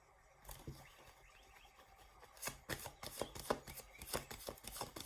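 Tarot cards handled and shuffled by hand: a quick run of light card slaps and taps that starts about two seconds in and grows louder.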